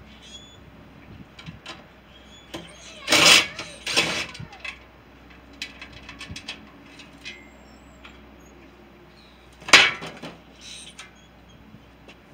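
Scattered knocks and clatters of hard objects being handled, with two loud rattling bursts a few seconds in and a sharp bang near the end.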